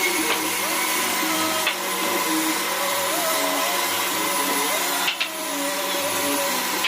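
A power tool running steadily in a woodworking shop, a continuous motor noise, with a few light clicks about five seconds in.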